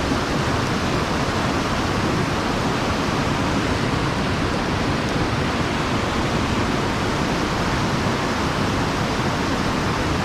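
Steady rush of water pouring over a sabo (erosion-control) dam into a mountain stream, an even roar of white water.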